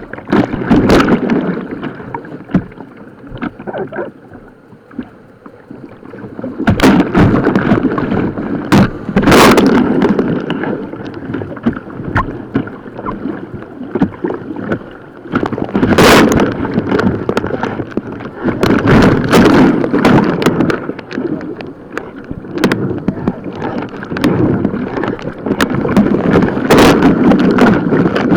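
Kayak on a white-water river, with the water rushing and splashing around the boat as it is paddled, loud in repeated surges and quieter for a few seconds early on. A few sharp splashes or knocks stand out, and wind buffets the microphone.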